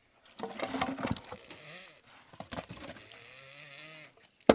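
Firewood being broken by hand: one sharp, loud crack near the end, with scattered knocks in the first half. A low, held voice-like call lasts about a second, starting about three seconds in.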